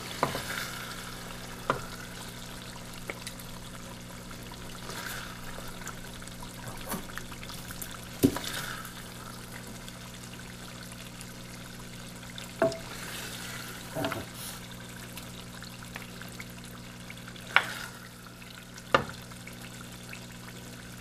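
Thick mutton curry, cooked down almost dry, sizzling in a pan while a wooden spatula stirs and scoops it. There are several short sharp knocks of the utensils against the pan and plate, over a steady low hum.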